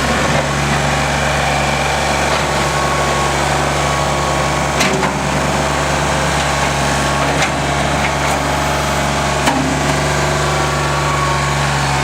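Kubota L3410 tractor's four-cylinder diesel engine running steadily at a constant speed, with a few light clicks over it.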